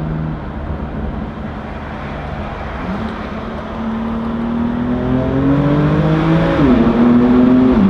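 Car engine under hard acceleration: its pitch climbs steadily from about three seconds in, drops sharply at an upshift about two-thirds of the way through, then climbs again and drops at a second shift at the end.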